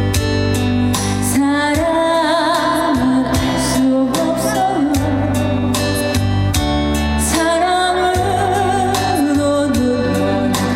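A female vocalist singing a Korean trot ballad live with a band, holding long notes with wide vibrato over steady bass and drums.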